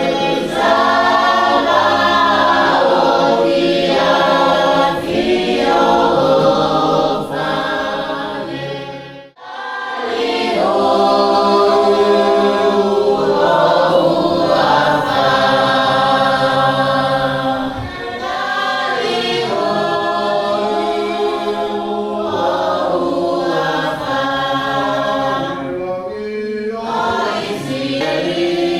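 Tongan church choir of many voices singing a hymn together. The singing breaks off briefly about nine seconds in, then picks up again.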